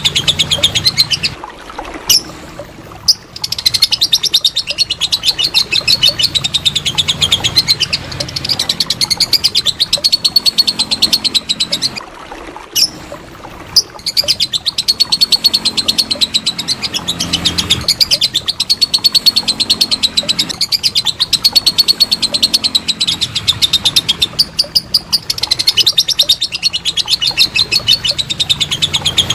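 Lovebird's long 'ngekek' song: a very rapid, high-pitched chattering trill of repeated notes, going on in long runs. It breaks off briefly about two seconds in and again about twelve seconds in.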